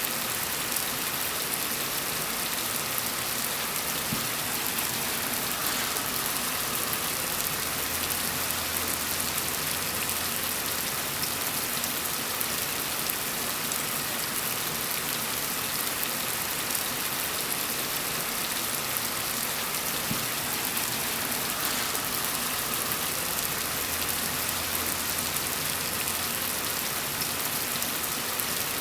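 Steady gentle rain falling, an even hiss of drops. A faint low rumble swells up twice underneath it.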